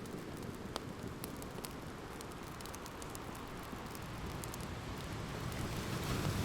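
Open wood fire crackling with scattered sharp pops over the steady wash of ocean waves; a wave swells louder near the end.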